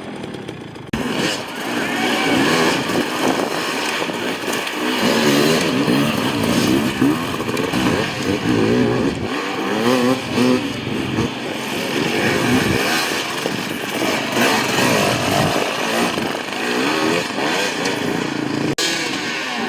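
Enduro dirt bike engine revving hard, its pitch rising and falling over and over as the throttle is worked. The sound changes abruptly about a second in and again near the end.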